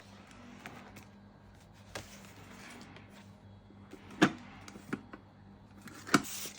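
A few sharp taps over a faint steady hum. The two loudest taps come about four and six seconds in.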